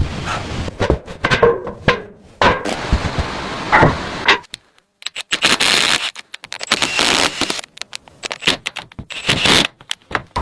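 Wood being worked by hand for a shelter build: a run of sharp knocks, cracks and scrapes in irregular clusters, with a near-silent break about four and a half seconds in.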